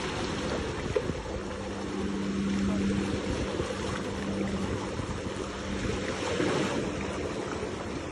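Steady outdoor wind and water noise with a low motor hum that comes in after a second or so, fades out midway and returns near the end.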